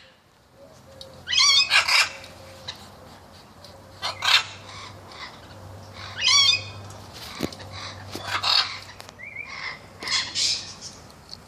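A pet bird calling, about five loud calls roughly two seconds apart, some rising sharply in pitch.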